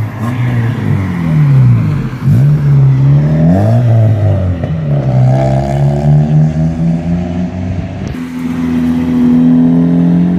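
Several car engines revving and accelerating as cars pull away, their pitch repeatedly rising and falling and overlapping. In the last couple of seconds one engine holds a steadier note.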